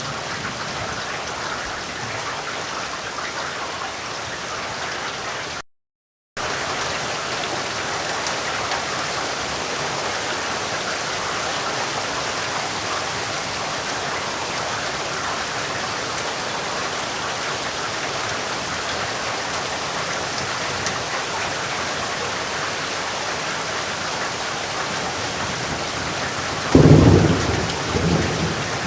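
Steady heavy rain falling, with a complete dropout of about half a second around six seconds in. Near the end a loud thunderclap breaks in and rolls on as a rumble.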